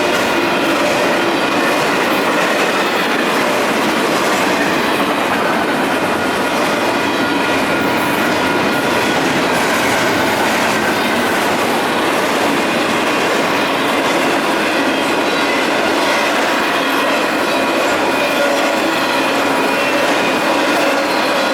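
Union Pacific intermodal double-stack freight train passing close by: a steady, loud run of wheels clattering over the rail joints, with a few thin, steady high tones running through it.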